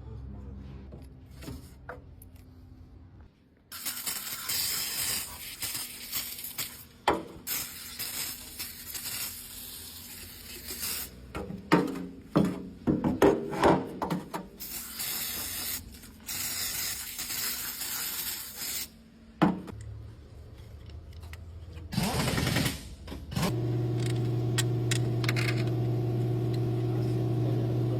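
Clicks, knocks and scraping over a hiss, like tools being handled. Near the end a short low rumble is followed by a steady low hum of a running motor.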